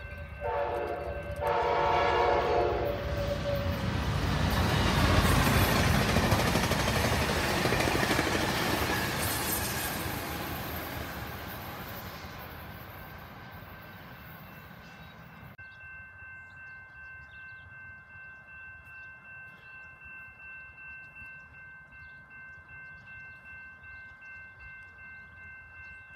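Train horn sounding in short blasts near the start, then a train passing with a loud rushing rumble that swells to a peak after a few seconds and fades away. Just past the halfway point this cuts off suddenly to a steady ringing of several tones that pulses about twice a second.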